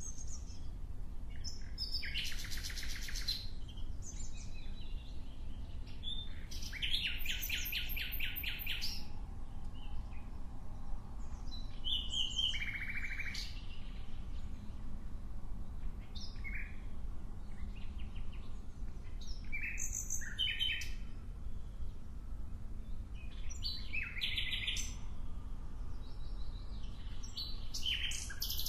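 Songbird song in separate phrases every three to five seconds, several of them fast, rattling trills, over a steady low rumble.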